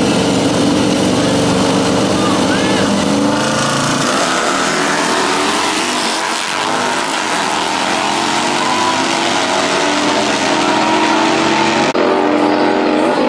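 Motorcycle engines running loud and revving, the pitch rising and falling, with an abrupt change near the end.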